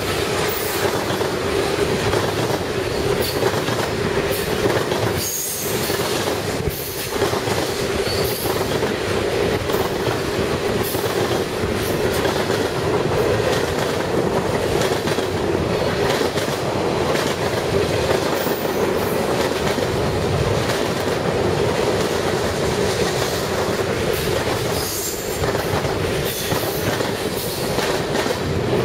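Canadian National train cars rolling steadily past, with a continuous rumble and wheel clatter over the rail joints. Brief high wheel squeals come and go, notably about five and twenty-five seconds in.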